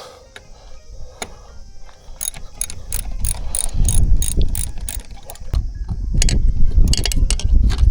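Ratchet wrench clicking as it is worked, with a low rumble swelling up twice underneath.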